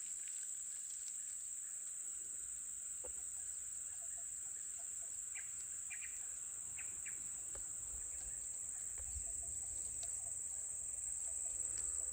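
Steady high-pitched drone of insects such as crickets or cicadas, with a few short faint bird calls in the middle.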